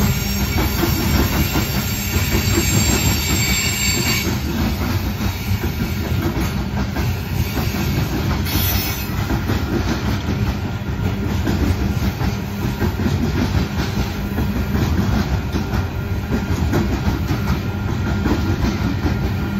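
Coal train hopper cars rolling past on the track in a steady, loud rumble with the rhythmic clatter of wheels over the rail. A thin high tone rides over it for the first four seconds or so, then fades.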